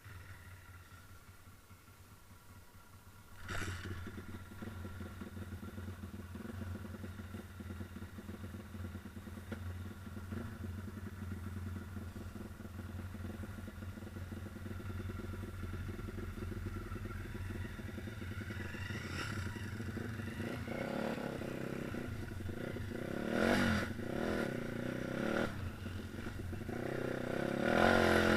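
Pit bike's single-cylinder four-stroke engine starting up about three and a half seconds in, then idling steadily. It is blipped a couple of times near the end, with the revs rising toward the close.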